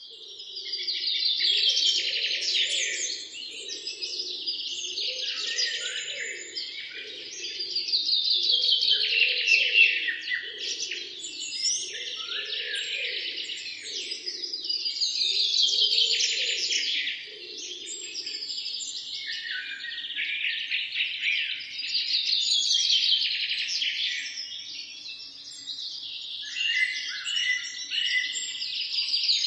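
A dense chorus of songbirds chirping and trilling, swelling and fading in waves about every seven seconds. Under it, a lower pulsing call repeats about once a second for the first half and then stops.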